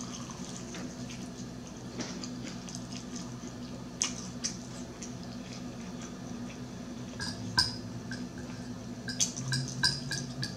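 Close-miked chewing of crispy fried chicken, with wet mouth clicks, over a steady low hum. Near the end a metal fork clinks several times against the plate.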